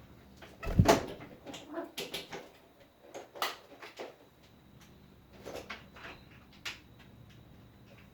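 Budgie cage being handled: a dull thump about a second in, then scattered light knocks and clicks.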